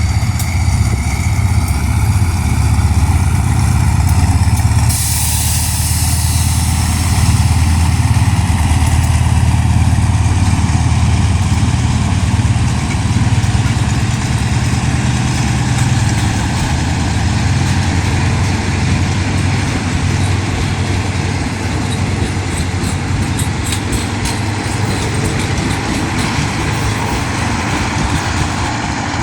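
Diesel locomotive engine running with a steady low rumble, with a burst of hiss about five seconds in that lasts about two seconds.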